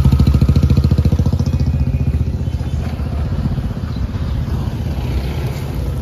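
Diesel engine of a Tata Safari Storme SUV running close by with a rapid, even low throb, which eases off after about two seconds.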